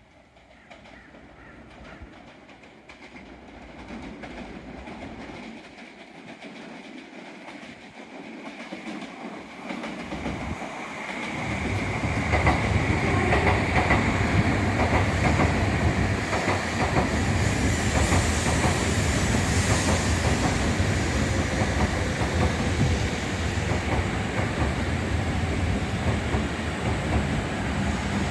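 N700S Shinkansen train pulling into the station, its running noise growing steadily louder over the first twelve seconds or so. It then holds as a loud, steady rumble of wheels and rushing air with a clatter of wheels over the rails.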